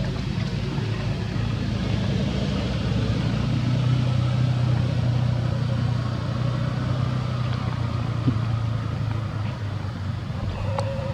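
A steady low motor drone, like an engine running, with a brief click about eight seconds in.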